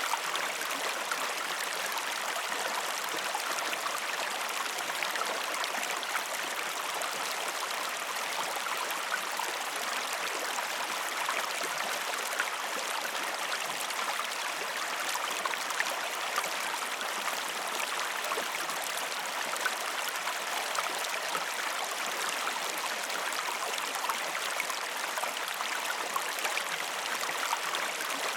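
Water running steadily over a waterfall, a constant rushing and splashing with small droplet ticks.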